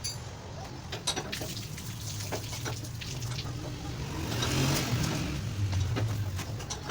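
Workshop noise: a steady low hum with scattered sharp clicks and light knocks, and a rush of hiss a little past halfway.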